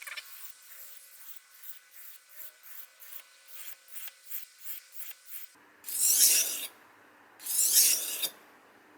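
Steel kitchen knife blade being stroked over a wet whetstone, a dry rasping scrape. It starts with quick short strokes at about three a second, then two long, louder full-length strokes near the end.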